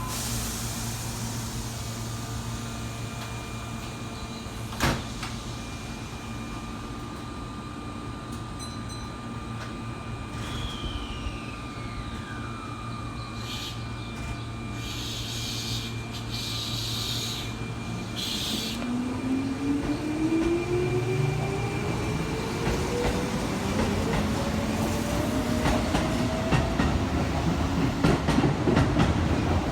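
Keihan limited express electric train pulling away: a steady low hum while it stands, then from about two-thirds of the way in an electric motor whine rising steadily in pitch as it gathers speed, with wheel clatter over rail joints growing louder toward the end.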